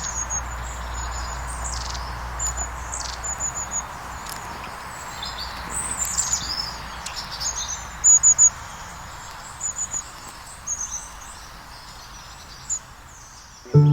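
Woodland birds calling: many short, high repeated notes and quick downward-sweeping chirps from several birds, over a steady low background hum.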